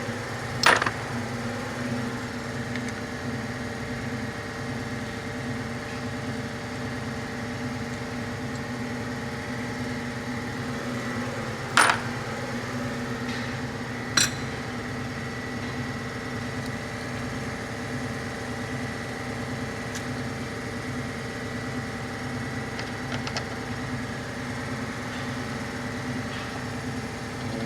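Three sharp metallic knocks of hand tools against engine parts: one near the start and two close together around the middle. A steady droning machine hum runs underneath.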